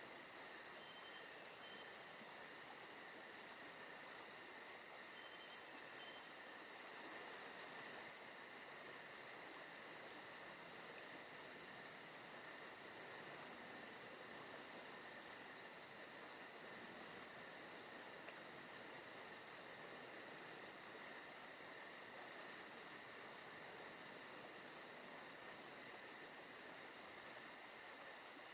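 Faint forest ambience: a steady chorus of crickets over a soft background hiss.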